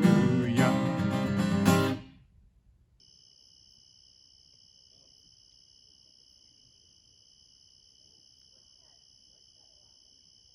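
Acoustic-guitar-led band music stops on its final chord about two seconds in. After a brief silence a faint, steady high-pitched trill starts and holds.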